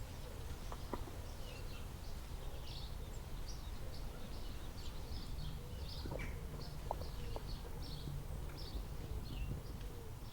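Birds chirping over and over, short high calls, above a steady low rumble of outdoor background noise, with a few faint clicks.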